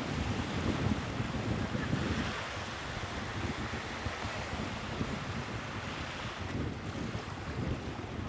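Sea waves washing on the shore, with wind buffeting the microphone, the rumble heaviest in the first two seconds and easing after.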